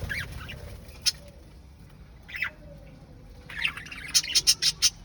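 Pet parrot calling in short chirps and squawks, spaced apart at first, then a louder burst near the end that ends in a quick run of about six sharp, clicky notes.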